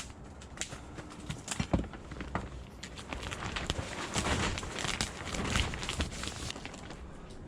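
Plastic shrink-wrap boat cover crinkling and crackling in the wind, with irregular sharp clicks and pops over a low wind rumble.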